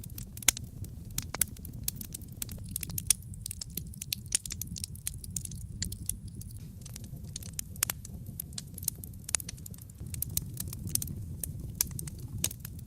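Wood fire crackling in a fireplace: irregular sharp pops and snaps, several a second, over a steady low rush of the burning fire.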